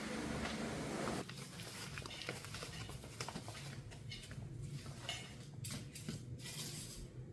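A soft steady hiss that drops away about a second in, then irregular light taps and clicks.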